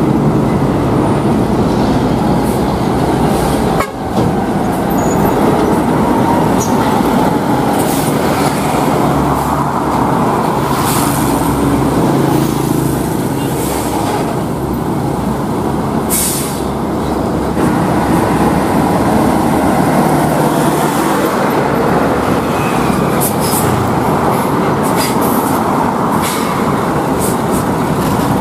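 Heavy trucks' diesel engines running and passing on the road: a loud, steady drone of engines and tyres, with a few short higher hisses or squeals.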